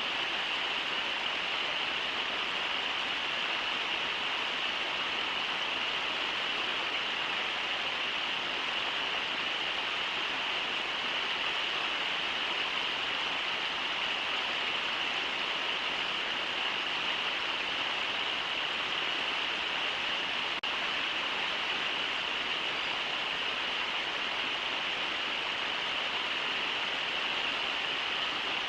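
Steady rush of the Brooks River running over shallow riffles, an even roar of flowing water with no breaks.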